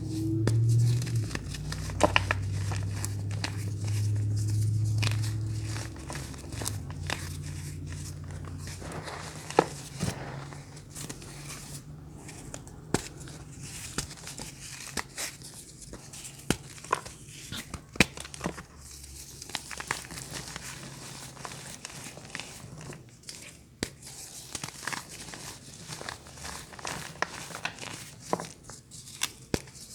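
Crunchy ASMR bars being crushed: a dense, irregular string of crisp snaps, crackles and crinkles. A low steady hum sits under the first several seconds.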